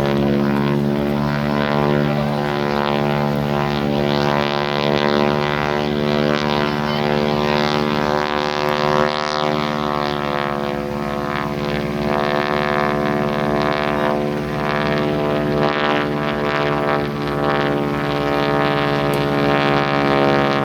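Propeller aircraft engines running, a steady multi-tone drone that dips slightly in pitch about halfway through.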